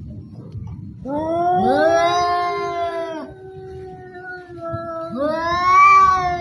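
Two cats yowling at each other in a standoff before a fight: long, drawn-out, wavering yowls that overlap in the middle, with another loud yowl starting about five seconds in.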